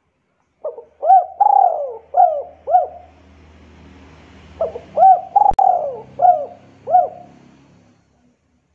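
A bird calling: two phrases of about five quick whistled notes each, a second or so apart, with a sharp click partway through the second phrase.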